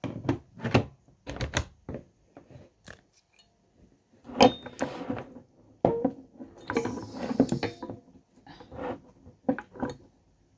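Handling noise from a compact LED floodlight and its packaging: a run of knocks and clicks as it is taken out and set down, with a brief rustle of plastic or paper about seven seconds in.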